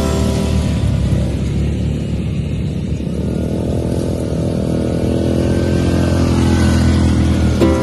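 All-terrain vehicle (ATV) engine running, its pitch climbing from about three seconds in as it speeds up.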